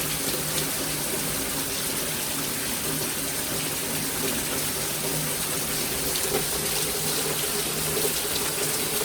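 Rainwater pouring and rushing steadily, as storm runoff overflows a gutter and runs through the yard, with a faint steady hum underneath.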